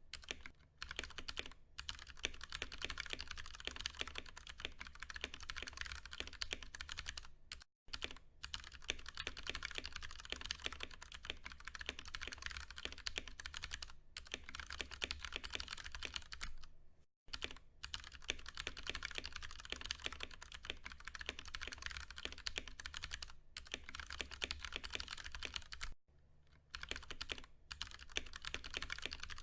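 Fast, continuous typing on a Ducky One 2 Mini mechanical keyboard with tactile, non-clicky Cherry MX Brown switches. The keystrokes come in a dense stream, broken by a few brief pauses.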